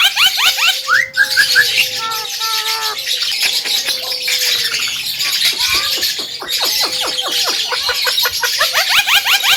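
Javan myna singing: fast runs of short, rising chattering notes, about ten a second, at the start and again near the end, broken in the middle by a few slower whistled notes.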